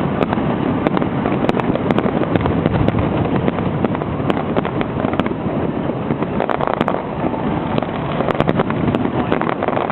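Fireworks display going off continuously: a dense stream of crackling pops and bangs with no break.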